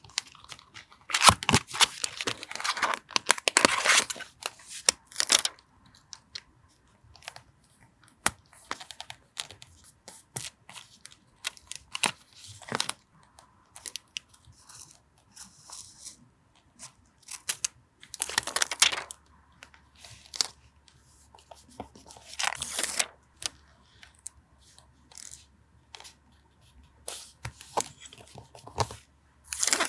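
Paper being torn and handled for a journal collage: a long stretch of tearing and rustling in the first few seconds, then shorter tears several times later on, with small taps and paper clicks in between.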